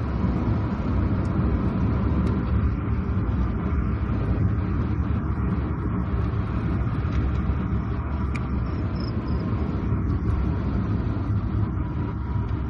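A car driving with a steady low rumble of engine and tyre noise on a wet road.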